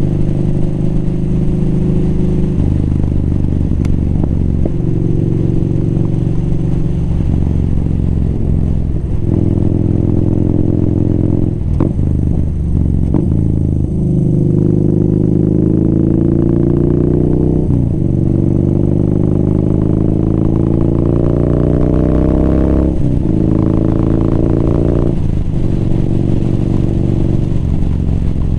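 Motorcycle engine running under way, pulling up through the gears: its pitch climbs in several long pulls through the middle, each cut short by a quick gear change, with a steadier drone at the start and near the end.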